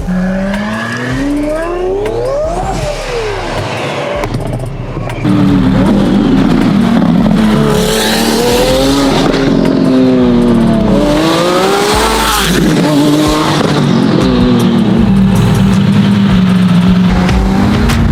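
Twin-turbocharged Lamborghini Aventador SVJ V12 engine revving repeatedly, its pitch climbing and falling with each rev. It gets markedly louder about five seconds in, then settles to a steadier drone near the end.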